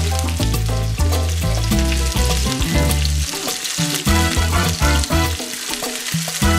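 Shrimp sizzling and crackling in hot oil in a cast-iron skillet, over background music with a steady bass line.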